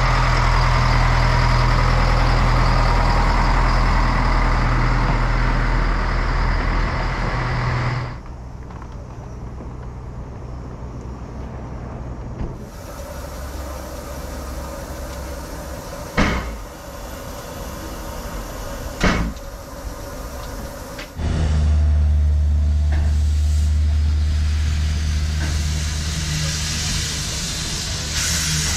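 Narrow-gauge train sounds: a locomotive running steadily with a low hum, then a quieter stretch with two sharp knocks, then a steady low rumble again from about two-thirds of the way in.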